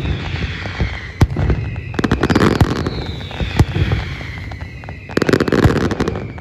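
Aerial fireworks display: shells bursting with sharp bangs about four times, two spells of dense rapid crackling, and high whistles falling in pitch.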